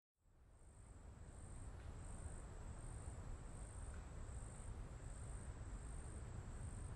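Crickets chirping in a steady pulsing rhythm, faint, over a low background hiss and rumble; the sound fades in during the first second.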